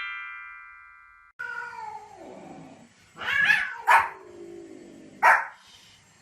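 A chiming sound effect fades out in the first second. Then an animal calls: one long call falling in pitch, a louder call about three seconds in, and two short sharp calls about four and five seconds in.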